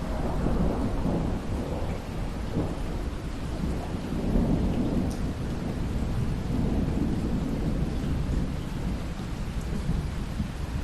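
Steady rain falling, with a long low rumble of thunder rolling through it. The thunder swells right at the start and comes back in waves through the middle.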